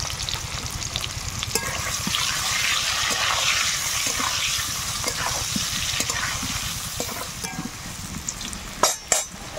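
Parboiled giant taro (mankochu) cubes frying in hot oil in a metal kadai: a steady crackling sizzle as a flat spatula turns them. A few sharp knocks come near the end.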